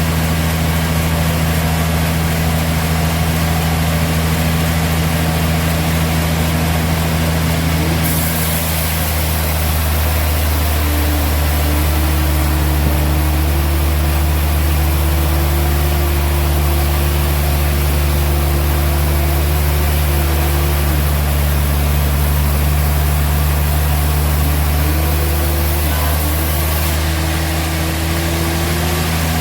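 Sawmill machinery running with a steady low engine drone. About ten seconds in a higher, steady tone joins it, drops away a little after twenty seconds and comes back near the end.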